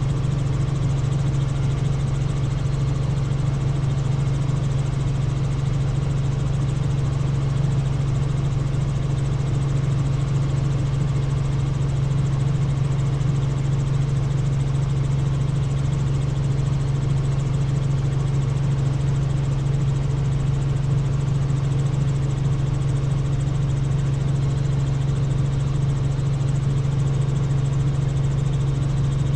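Helicopter in flight: a steady drone from the rotor and engine with a strong, even low hum that does not change.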